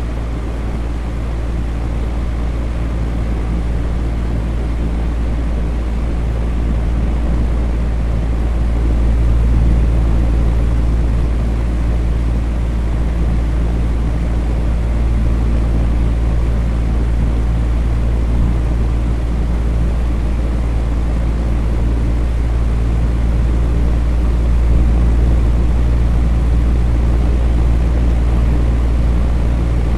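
Electric fan running steadily: a constant whooshing air noise with a deep, even hum underneath.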